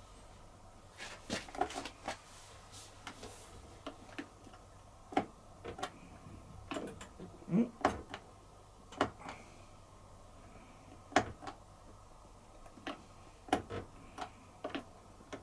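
Irregular clicks and taps from buttons being pressed on a Bosch dishwasher's control panel while it is stepped through its service-mode test programmes.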